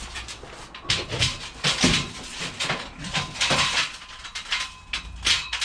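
Scrap metal being pushed and shuffled into a vehicle, with irregular clattering, knocking and scraping.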